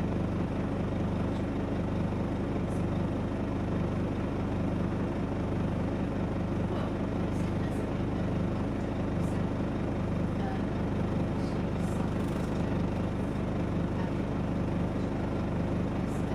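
Scania OmniDekka double-deck bus's diesel engine running at a steady pitch, with a few faint light rattles.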